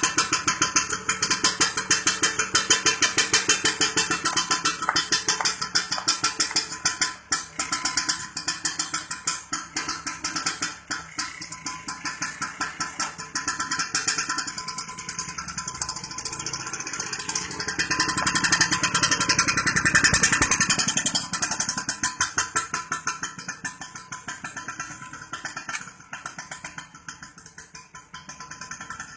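Vespa Super two-stroke scooter engine running through an aftermarket exhaust, with a quick even pulsing beat. It is revved up for a few seconds past the middle, then settles back down.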